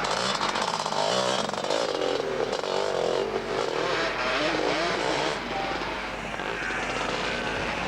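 Motocross bike engines revving up and down as the bikes ride, the pitch rising and falling, louder in the first five seconds and easing off a little after.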